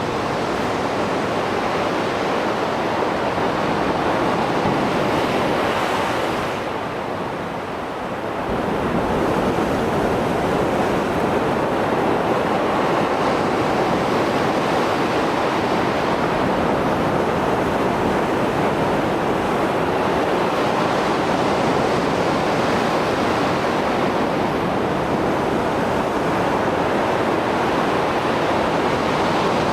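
Mediterranean sea surf after a storm, waves rushing and breaking in a continuous wash, with a brief lull about seven seconds in.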